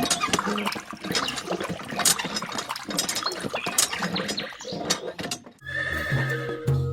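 A horse whinnying amid a busy clatter of sharp clicks and noise, with music coming in near the end.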